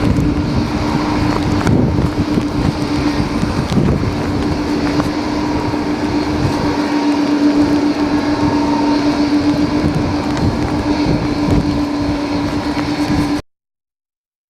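Strong, gusty typhoon wind buffeting the microphone, with a steady low hum underneath. The sound cuts off abruptly about a second before the end.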